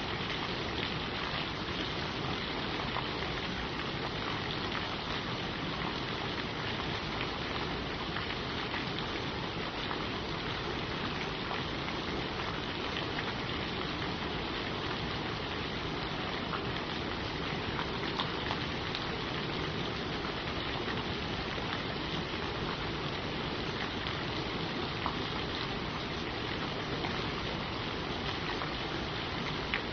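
Steady rain falling on forest leaves: a dense, even patter with a few sharper single drops here and there.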